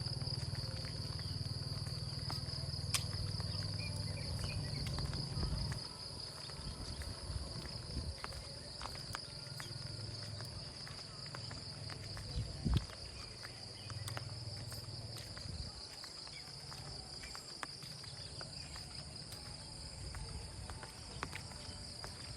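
Insects trilling steadily at a high pitch, with scattered light ticks and one louder knock about halfway through. A low rumble underneath fades out about six seconds in.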